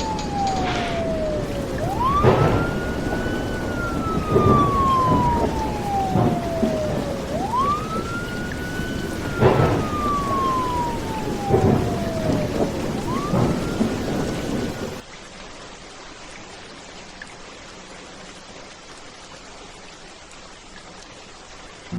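Rain with claps of thunder and a distant emergency-vehicle siren wailing, slowly rising and falling three times. About fifteen seconds in the siren and thunder cut off, leaving quieter rain.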